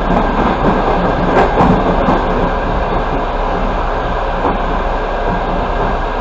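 Passenger train running at speed, heard from inside a carriage: a steady rumble of wheels on rails, with a few wheel clacks over rail joints in the first two seconds.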